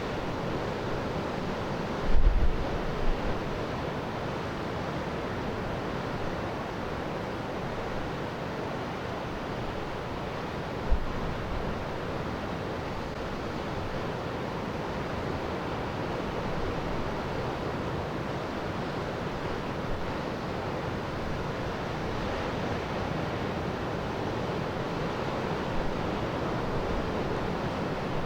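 Steady wash of surf with wind, and the wind twice buffeting the microphone with short low thumps.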